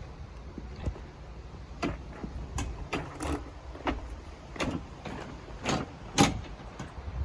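Household goods being handled and loaded into a truck: scattered knocks and clunks, about a dozen over several seconds, over a low rumble.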